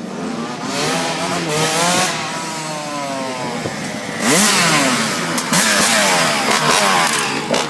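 Dirt bike and pit bike engines revving up and down as the bikes ride past. About four seconds in a bike comes by loudly and its pitch drops as it passes, and another loud pass follows soon after.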